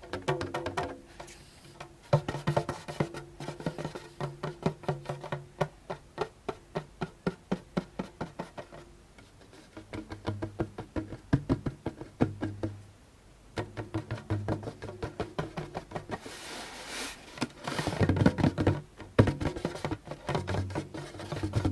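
Fingertips tapping quickly and lightly on a djembe, many taps a second, the drum ringing low under them, with short pauses twice in the middle and a louder, busier stretch near the end.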